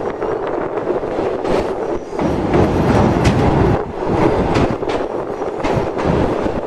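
Passenger train running on the rails: a steady rumble with irregular knocks, growing louder for a couple of seconds in the middle.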